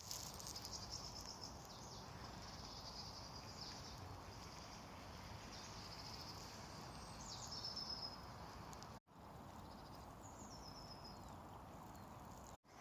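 Faint outdoor ambience: high-pitched chirping and trilling, with a few short falling whistles, over a steady background hiss. The sound cuts out briefly twice, about nine seconds in and near the end.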